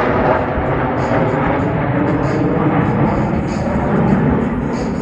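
Jet engine noise from Blue Angels F/A-18 Hornet fighters in flight overhead: a loud, steady rush with no clear pitch.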